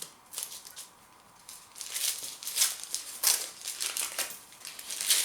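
Food packaging crinkling and rustling in irregular bursts as it is handled, starting after a quiet second or so.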